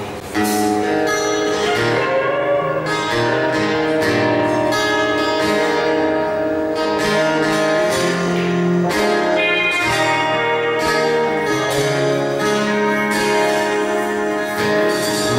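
Instrumental intro of a country band song, led by guitar chords, before the singing begins.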